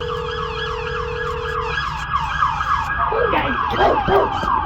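Emergency vehicle siren on a fast yelp: a quick falling sweep repeating about three times a second. A steady lower tone sounds with it for the first second and a half or so.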